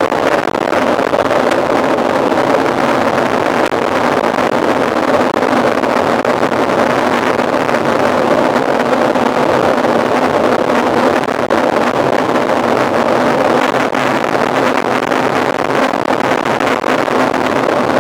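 Steady rushing wind noise over the microphone of a camera riding along on a mountain bike.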